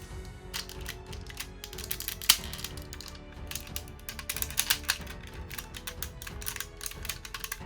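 Hard plastic parts of a transforming Megazord robot toy clicking and ratcheting as its joints are moved and pieces snapped into place, with one sharp snap about two seconds in.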